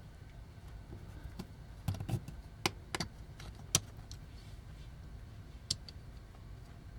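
A hand tool, an ice pick, clicking and tapping against the small parts of a toy robot as a stuck piece is pried at: a few scattered sharp clicks, several close together in the first four seconds and one more near the end.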